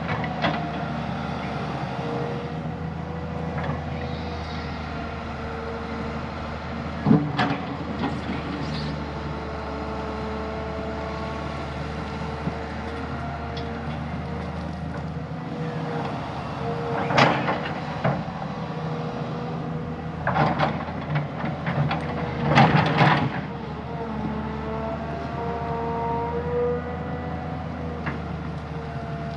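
Heavy diesel earthmoving machine running steadily with a hydraulic whine, broken by a loud knock about a quarter of the way in and a cluster of loud knocks past the middle.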